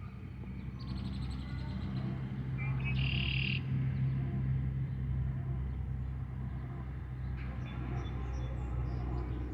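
A steady low engine hum that grows louder over the first few seconds and then holds, with a short bird chirp about three seconds in.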